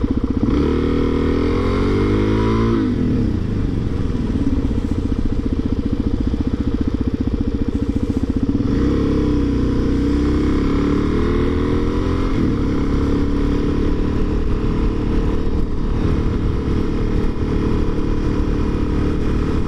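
Motorcycle engine running under way, rising in pitch as it accelerates and dropping at a gear change, twice: near the start and again about nine seconds in, then holding a steadier cruising note.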